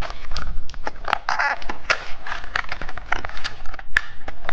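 Blind-box packaging being opened by hand: a run of crinkling, crackling and tearing with sharp clicks.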